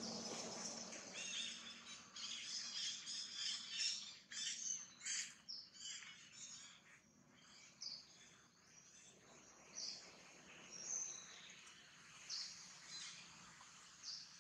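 Small birds chirping and twittering in quick high calls, dense for the first few seconds and then thinning to scattered chirps.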